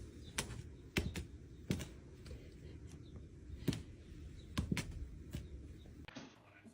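Light clicks and taps at irregular intervals, about eight in all, over a low steady background hum; the background changes abruptly about six seconds in.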